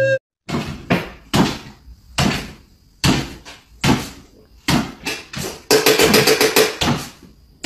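Small dog hopping on its hind legs on a wooden floor: a series of sharp taps from its paws, about one a second, with a quick run of taps about six seconds in.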